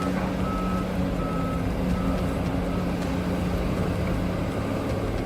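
Heavy mining machinery's diesel engine running steadily, with a reversing alarm sounding a repeated short beep over it.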